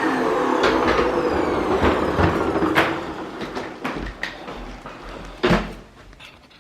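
Vacuum cleaner motor winding down after being switched off, its whine falling in pitch and fading out, with several separate knocks and clunks as the machine is handled.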